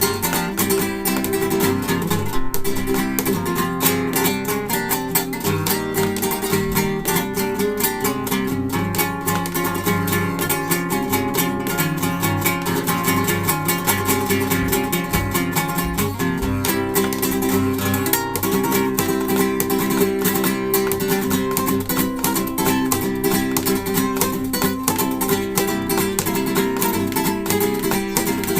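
Acoustic guitar playing a lively, fast piece, with dense runs of quickly plucked notes mixed with strummed chords.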